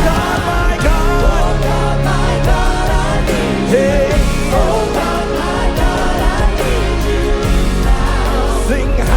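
Live worship band music with singing over a steady bed of bass and keys, loud and even throughout.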